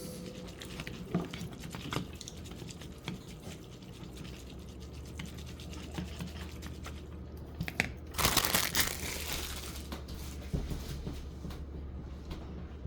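Small clicks and rustling of noodles being mixed with their seasoning in a bowl, with a louder rustle about eight seconds in, over a steady low hum.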